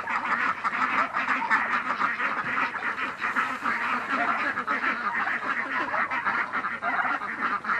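A flock of farm ducks and other poultry quacking and calling together in a dense, continuous chorus: hungry birds clamouring for feed.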